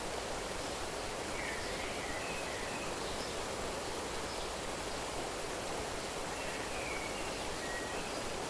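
Steady rushing of flowing water, with a few faint bird chirps about a second and a half in and again near the end.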